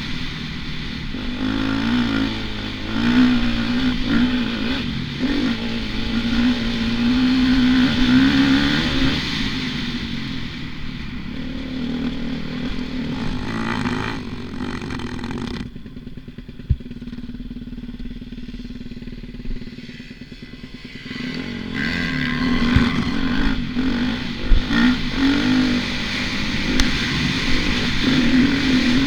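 Motocross bike engine revving up and down as it is ridden. About halfway through, the throttle is shut for several seconds and the engine drops to a low, quieter note, with a sharp knock in that stretch. Then it picks up and revs hard again.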